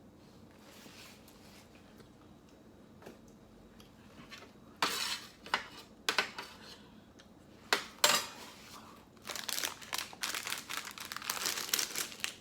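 Plastic ice cream bar wrapper being handled and opened: a few sharp rustles and knocks about halfway through, then steady crinkling near the end.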